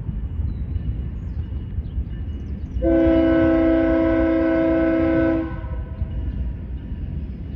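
Locomotive air horn on a GE ES44DC sounds one long chord blast of about two and a half seconds, a grade-crossing warning, over the steady low rumble of the approaching diesel locomotives.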